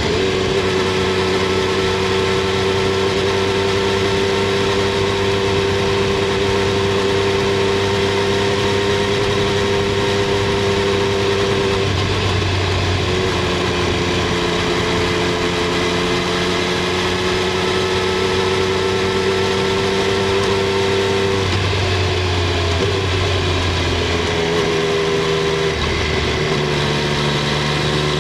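Triumph Street Triple 765 R's inline three-cylinder engine and exhaust running at fairly steady revs. The pitch shifts a few times and rises near the end.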